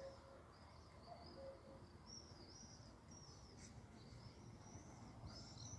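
Faint songbird chirping: a run of quick, high chirps, busier near the end, over a low background rumble.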